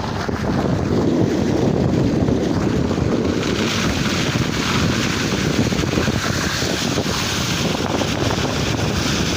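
Blizzard wind blowing hard and buffeting the microphone, with a gust building about three seconds in.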